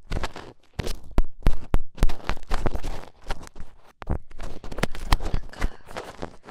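Close-miked ASMR ear-cleaning sounds: an ear pick scratching and rubbing in a binaural microphone's ear, with irregular sharp clicks and taps.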